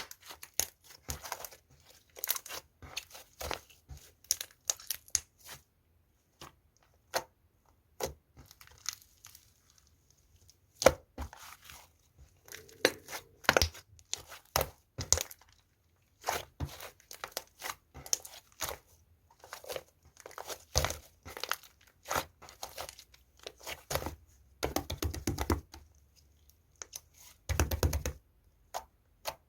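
Pink slime being kneaded and folded by hand with clay mixed in, giving irregular sticky pops, crackles and clicks, some in quick runs, with short pauses between handfuls.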